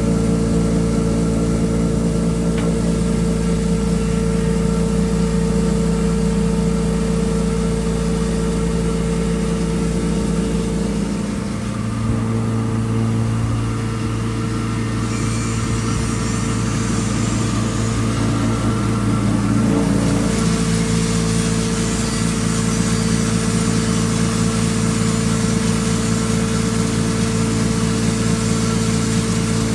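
3 HP coriander grinding machine running, a steady motor hum with grinding noise; the sound shifts in character a little before halfway and again around two-thirds through.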